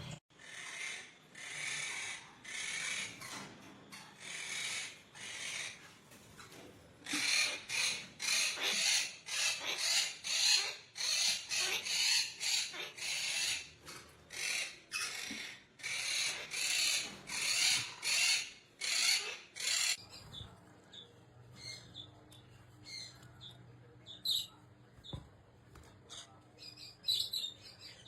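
A parrot giving a long run of harsh, rasping squawks, about two a second. About twenty seconds in they stop abruptly, leaving a low steady hum and a few faint, scattered chirps.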